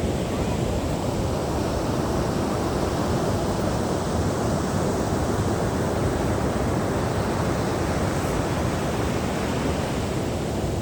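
Steady rush of ocean surf mixed with wind on the microphone, even and unbroken.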